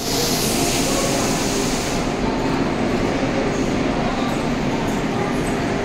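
Steady rumble and hiss inside a running Vande Bharat Express electric train, heard in the gangway between coaches. A loud high hiss drops away about two seconds in.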